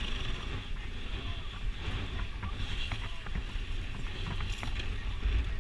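Wind rumbling on the action camera's microphone, with scattered small clicks and ticks; no clear engine note is heard.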